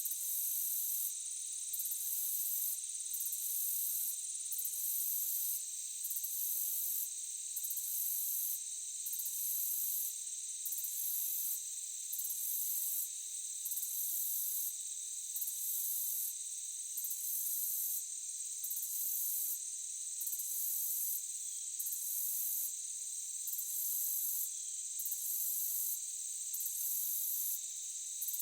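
Night insect chorus of crickets: a steady high-pitched buzzing, overlaid by a very high trill that pulses on and off about once a second.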